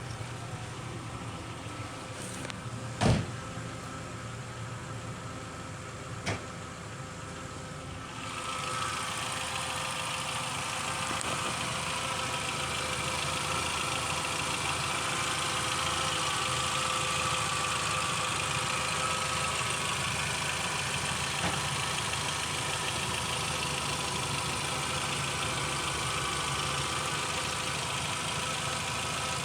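VW Beetle engine running steadily, with two short knocks in the first seven seconds; about eight seconds in it grows louder and brighter and holds there.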